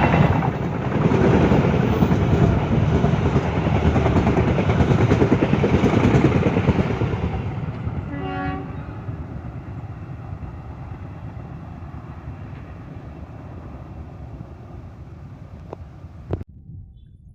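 Diesel train running past close by, a loud rumble that fades steadily as it moves away. A short horn toot sounds about eight seconds in, and a sharp click comes near the end.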